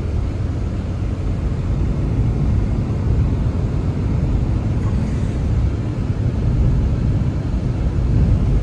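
Wind blowing steadily, a deep low rush with no breaks.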